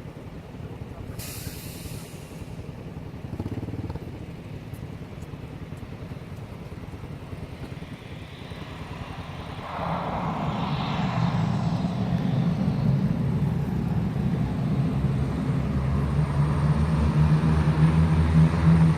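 Cessna 208 Caravan single-engine turboprop with its propeller running, a low steady hum that gets clearly louder about halfway through and stays loud. There is a short hiss about a second in.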